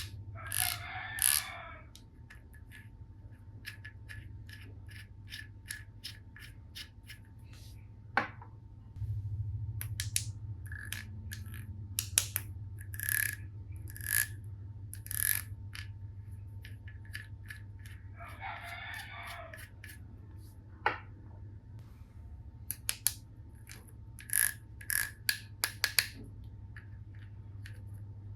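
Plastic toy tool pieces being handled: many separate clicks and taps, with two brief spells of rustling or scraping, about a second in and again past the middle.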